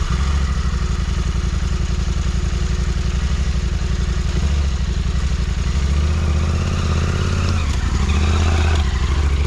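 KTM 1290 Super Adventure R's big V-twin engine running steadily at low revs, its firing pulses close and even.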